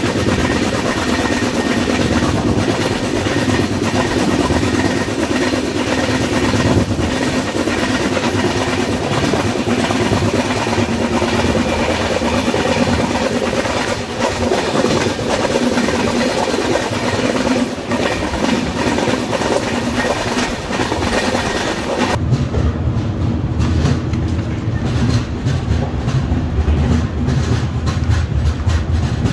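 Passenger express train running at speed, heard from the open coach doorway: a loud rush of air and running noise with the wheels clattering over rail joints. About 22 seconds in the sound changes abruptly to a lower, duller rumble as the train pulls out of a station.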